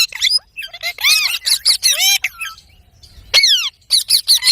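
Pet parrot calling in quick bursts of chirps and squawks, many notes sliding downward in pitch, with a pause of about a second in the middle.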